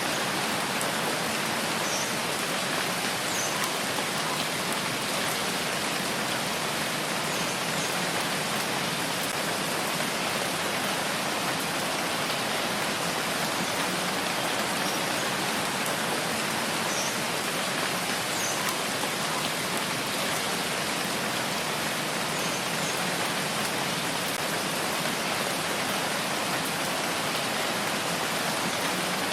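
Steady rain falling, an even hiss without let-up, with a few faint drop ticks here and there.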